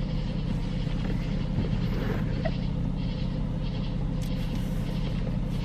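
Steady low hum, with faint soft rustling noises over it.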